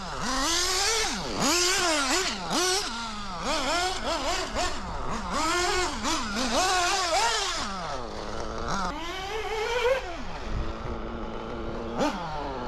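O.S. Speed AD3 nitro engine revving up and down over and over as the throttle is worked, its whine rising and falling quickly, holding steadier for a couple of seconds past the middle before climbing again. The engine is still being broken in and running a bit rich.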